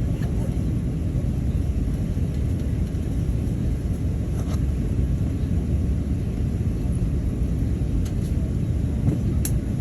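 Steady low rumble of engine and airflow noise inside the cabin of an Airbus A380, with a couple of faint clicks near the end.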